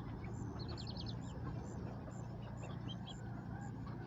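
Baby chicks and ducklings peeping in a brooder pen: many short, high peeps in quick runs, over a steady low hum.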